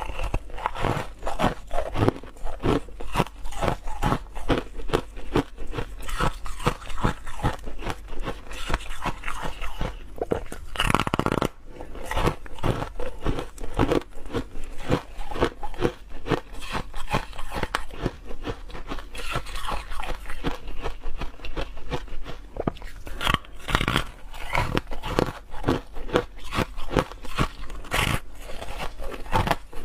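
A person biting and chewing ice close to the microphone: dense, continuous crunching and crackling, with a few louder bites, one about a third of the way in and one near the end.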